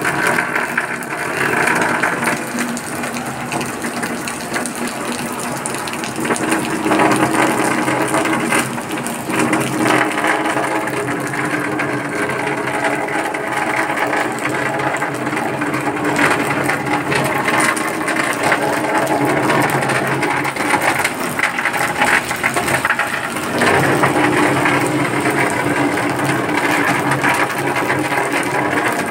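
Rain and running water, mixed with a continuous mechanical whirring noise.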